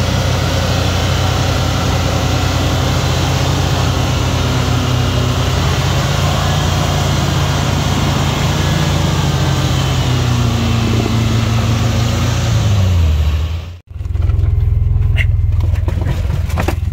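Suzuki SJ-series 4x4 engine running steadily, its pitch sinking as the revs fall about thirteen seconds in. It cuts off abruptly, and a lower, steady engine hum with light rattling clicks follows, heard from inside the cab.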